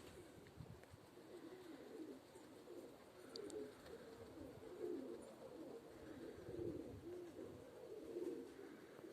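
Domestic pigeons cooing: low, warbling coos from several birds overlapping without a break.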